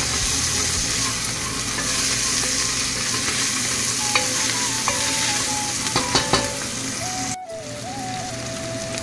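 Sliced onions and ginger-garlic paste sizzling in hot oil in a pressure cooker, stirred with a wooden spatula that knocks against the pot a few times about six seconds in. The sizzle cuts out briefly a little past seven seconds, then goes on more quietly.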